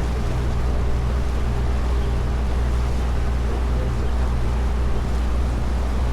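Tour boat's engine running steadily under way, a constant low hum, with wind and rushing water over it.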